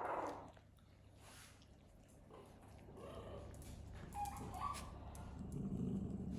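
Puppies whimpering faintly: a short whine right at the start and a couple of brief high whines about four seconds in.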